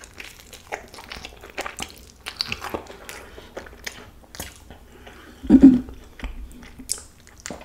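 Close-miked chewing of a carnitas burrito: a string of small wet clicks and crunches as a bite of tortilla and filling is chewed. A short, louder low hum breaks in about five and a half seconds in.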